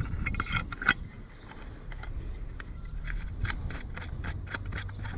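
Small hard clicks and scrapes of chainsaw parts being handled and fitted, with a run of quick ratchet-like ticks, about four or five a second, in the second half.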